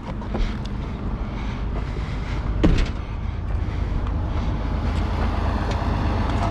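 A vehicle engine running steadily, a little louder toward the end, with a single short knock about two and a half seconds in.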